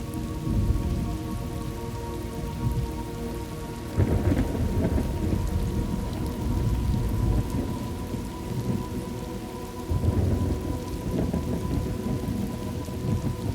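Thunderstorm ambience: steady rain with rolling thunder. The thunder swells suddenly about four seconds in and again about ten seconds in.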